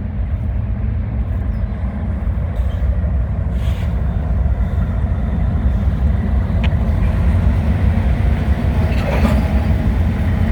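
Norfolk Southern diesel freight locomotive approaching, its engine rumble growing steadily louder as it nears while it works hard under load.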